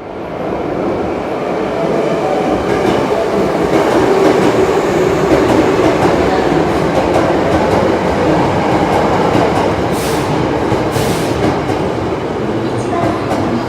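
Osaka Metro Sakaisuji Line train running in the underground station: a steady rumble of wheels on rail that fades in over the first second, with two brief high hisses about ten and eleven seconds in.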